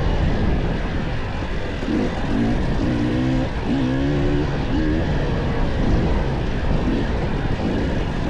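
Dirt bike engine revving up and down repeatedly as it is ridden along a single-track trail, over heavy wind noise.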